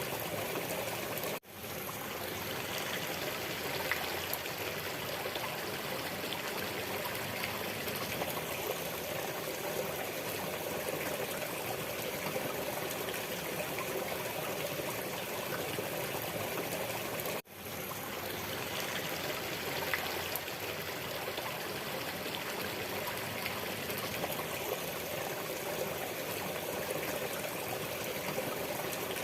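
Waterfall water rushing steadily in an even roar, with two sudden brief dropouts, about 16 seconds apart.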